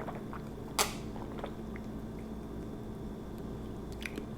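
Close-miked chewing and wet mouth sounds from eating an Italian sub sandwich, with one sharp click about a second in and a few faint clicks near the end.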